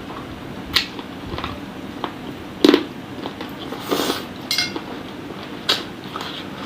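Close-miked eating sounds of chicken-feet satay being bitten and chewed, with several sharp, wet clicks and crunches, the loudest about two and a half seconds in.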